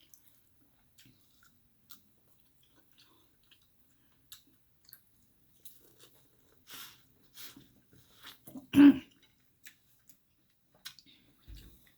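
Close-miked chewing: soft scattered clicks and wet mouth noises of someone eating, with one brief louder sound about nine seconds in.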